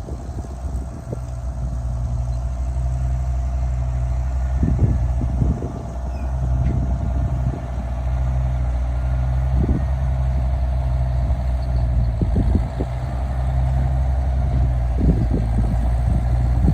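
A vehicle engine running at a steady speed, with scattered clunks and rattles at irregular moments.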